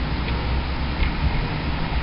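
Steady road noise of a truck driving slowly through town streets: a low engine and tyre rumble with an even hiss, and two faint ticks in the first second.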